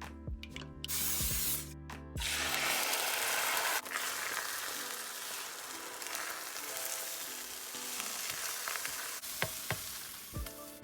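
Scrambled eggs sizzling in a frying pan, a short burst about a second in and then steadily from about two seconds in, loudest for the first second or so of that. Background music plays underneath.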